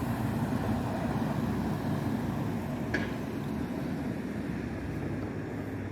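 Steady low rumble of a road vehicle's engine running close by, with a short click about three seconds in.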